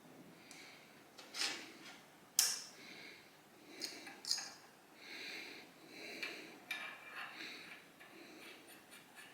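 Hand work on motorcycle parts with tools: a few sharp clicks and knocks, the loudest about two and a half seconds in, with rubbing and scraping between them.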